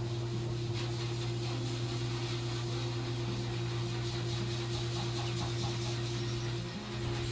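A steady machine hum, a low drone with a fainter higher tone above it, that dips briefly near the end.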